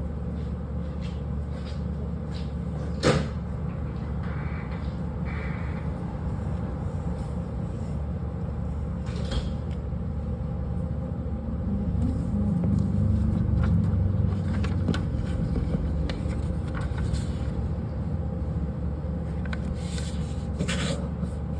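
A steady low hum with scattered light clicks and one sharp knock about three seconds in. The hum swells for a couple of seconds around the middle.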